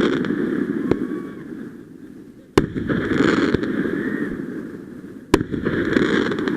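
Fireworks going off: a sharp bang about every two and a half to three seconds, each followed by a long crackling noise that fades, with a few smaller pops in between.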